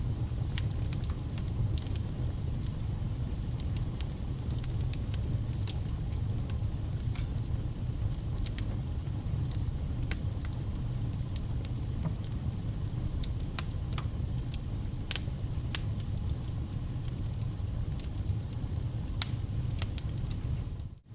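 Wood fire burning: a steady low rumble with frequent sharp crackles and pops from the burning firewood. The sound drops out briefly near the end.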